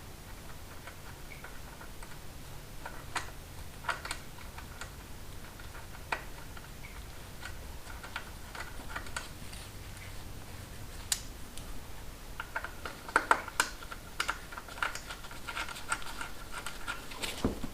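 A 1/4-inch socket ratchet clicking in uneven runs of light ticks, quicker and denser near the end, as a bolt is backed out. A low steady hum sits underneath.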